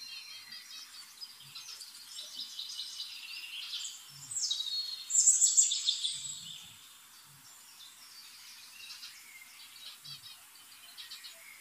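Birds chirping and singing, a busy mix of quick high chirps and short falling whistles, loudest around the middle and fainter in the second half.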